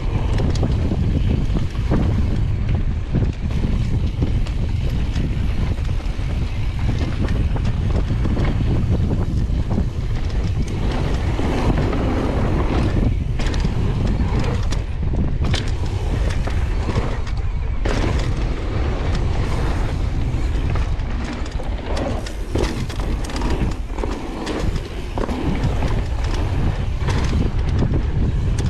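Wind rushing over the microphone of a downhill mountain bike ride, with many short knocks and rattles from the bike bouncing over rough trail.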